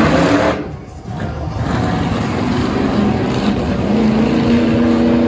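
Monster truck engine revving hard. It is loud at first, drops away about a second in, then builds again to a steady, sustained rev.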